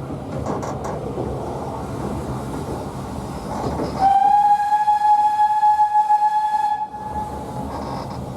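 Narrow-gauge steam train running with a steady rumble and rattle. About four seconds in, the steam locomotive's whistle sounds one long, steady note for nearly three seconds, the loudest sound here, before the running noise returns.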